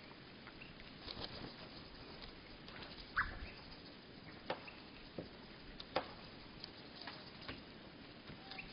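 Birds at a seed feeder, played back at one-third speed: scattered, irregular clicks and taps from pecking and perching, with one short chirp, lowered in pitch, about three seconds in.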